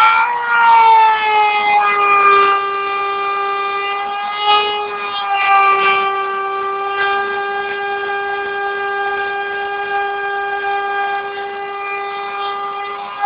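CNC milling machine's spindle running with a steady high whine. The pitch drops slightly in the first couple of seconds and then holds, with brief rasping noises now and then as the cutter works the material.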